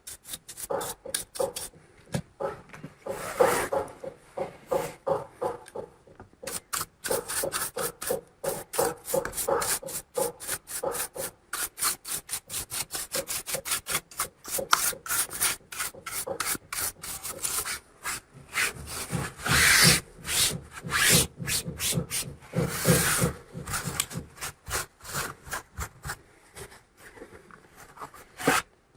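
Quick repeated rubbing or scrubbing strokes, about four a second, as laptop cooling-fan parts are cleaned by hand. They grow heavier and fuller for a few seconds past the middle.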